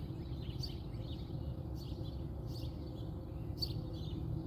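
Outdoor background: a steady low rumble with a few short, high bird chirps about a second apart.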